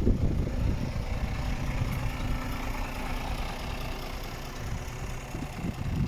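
Scania R410's 13-litre six-cylinder diesel idling steadily, with low rumbling buffets near the start and near the end.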